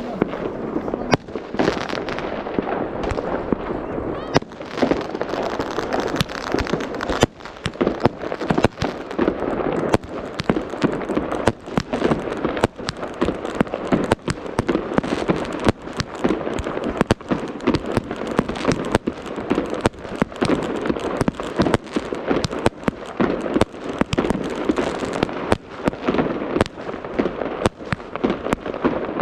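New Year fireworks going off in a continuous rapid barrage: many sharp bangs and pops a second over a dense crackling rumble.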